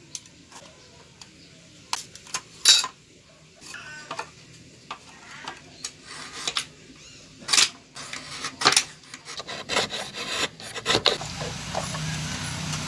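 Hand tools working small pieces of wood: irregular short rasping scrapes and sharp knocks. A steady low hum comes in near the end.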